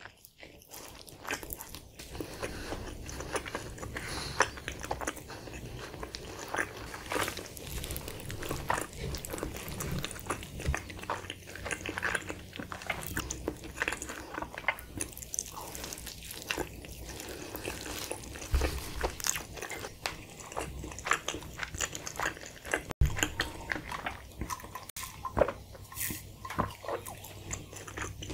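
Close-miked biting and chewing of a cheesesteak quesadilla in a soft flour tortilla: many short wet mouth clicks and smacks as it is chewed.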